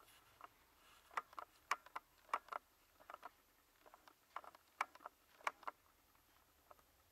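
Light, irregular clicks and knocks of small wooden clock parts being handled and set down, about a dozen sharp taps in uneven clusters.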